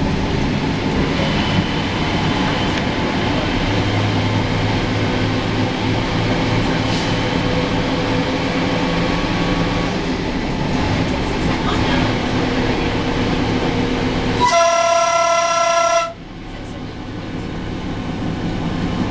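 Diesel railcar of the metre-gauge Provence railway running through a tunnel, a steady, loud rumble of wheels and engine heard from the driver's cab. Near the end the train's horn sounds for about a second and a half and cuts off sharply. The rumble then drops and slowly builds again as the train comes out into the open.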